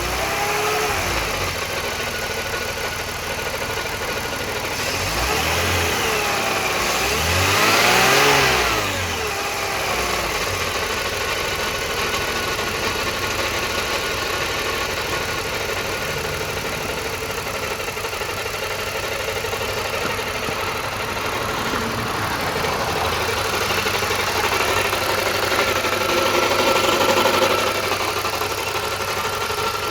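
BMW E46 320i's M54 straight-six engine running with a rattle, revved briefly twice about five to nine seconds in. The rattle comes from an exhaust leak at a cracked weld on the lower part of the exhaust manifold, which the owner calls a common fault on the E46.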